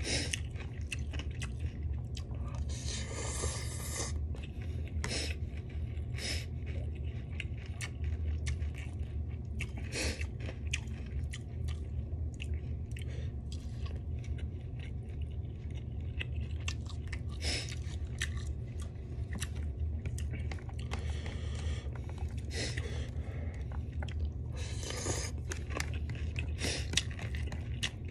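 A person chewing and crunching food, with many sharp crunches and a few longer noisy bites, over a steady low hum.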